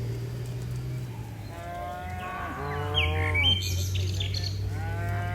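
Cattle mooing: long, low, drawn-out moos, overlaid by two higher calls that fall in pitch at their ends. A brief bird chirp comes about three seconds in.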